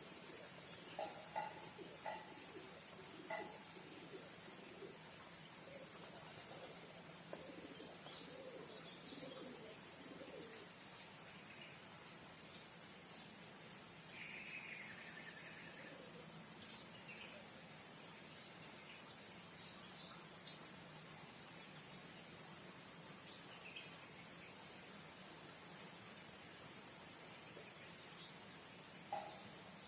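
Insect chorus: a steady, high-pitched shrill trill with a regular pulsing chirp under it.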